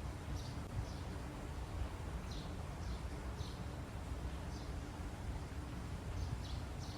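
Small birds chirping: short, high, slightly falling chirps repeated irregularly, about every half second to second, over a steady low background rumble.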